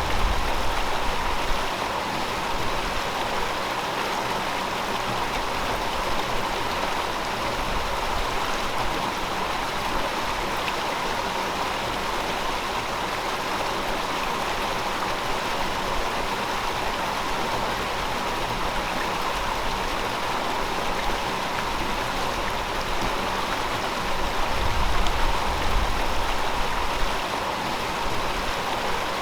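A river flowing in a steady rush of water. A low rumble swells briefly near the start and again about 25 seconds in.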